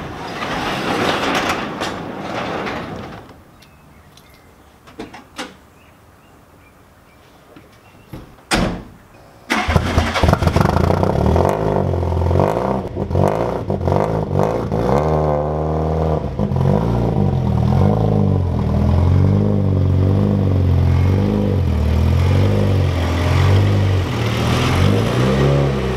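A garage door opens, then the 1987 VW Golf GTI Mk2's engine cranks and starts about nine seconds in and keeps running with a low, pulsing note as the car moves.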